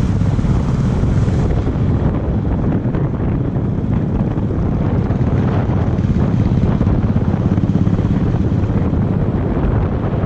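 Wind buffeting the microphone on a moving Royal Enfield Bullet motorcycle, over the steady low running of its engine.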